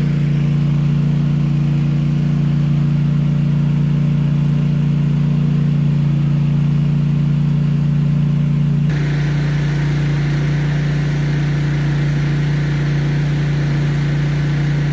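A steady engine hum, like a vehicle running at a constant speed, holding one low pitch throughout. The sound shifts abruptly about nine seconds in, brighter and with more hiss.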